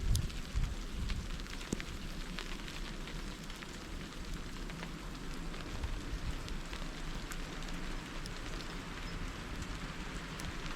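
Icy snow falling and pattering on surfaces: a steady hiss with many small scattered ticks, over an uneven low rumble.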